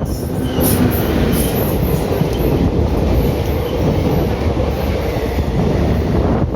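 Indian Railways ICF train running along the track: a steady rumble of wheels on rails.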